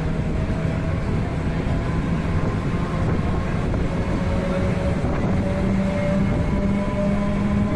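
A passenger train running along a station platform, heard from its open doorway: a steady rumble of wheels and running gear with wind. A humming tone rises slightly in pitch in the second half.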